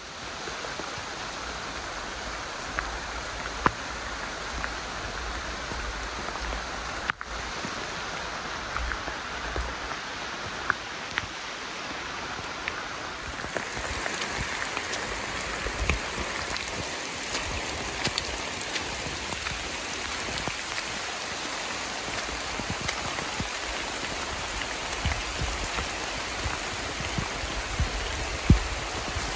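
Steady rain falling on the forest and on a rain jacket, with scattered sharp drop hits; the sound shifts in character about halfway through.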